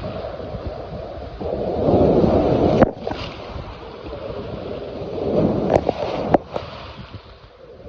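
Hudson River water sloshing and lapping in uneven surges that swell and fade, with a few sharp slaps about three seconds in and around six seconds.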